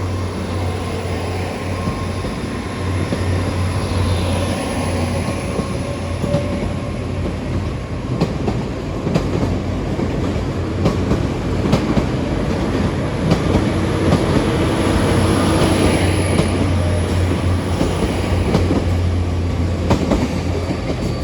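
Great Western Railway Intercity Express Train (Class 800-series IET) pulling out along the platform. Its underfloor diesel engines give a steady low hum, and its wheels click over the rail joints, growing somewhat louder about two-thirds of the way through.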